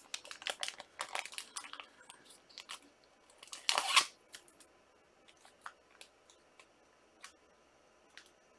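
Trading cards and pack wrappers being handled: quick rustling and crinkling with light clicks, a louder rustle about four seconds in, then only occasional faint clicks.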